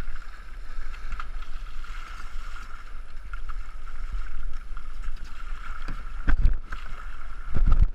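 Two-man racing canoe being paddled down a river: steady water rush and paddle splashing, with wind buffeting the GoPro microphone. Two heavier low thumps come near the end.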